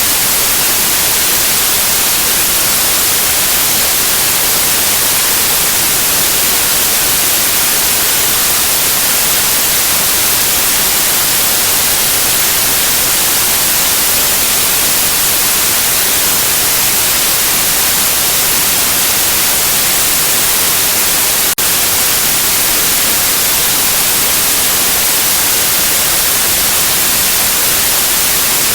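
Continuous, steady white noise hiss, strongest in the high treble. One brief dropout about two-thirds of the way in.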